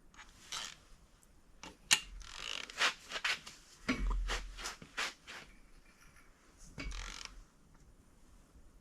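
Hand tools and metal engine parts handled: an irregular run of sharp clicks and knocks with short scrapes and a dull thud, during work on the oil pump bolts.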